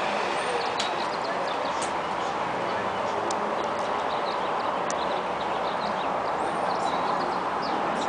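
Birds chirping in short high calls, with a few rising whistles, over a steady rushing background noise.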